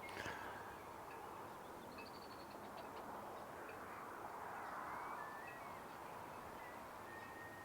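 Faint outdoor birdsong: several birds giving scattered short chirps and whistles, with a brief rapid trill about two seconds in and a longer level whistle near the end, over a soft steady hiss.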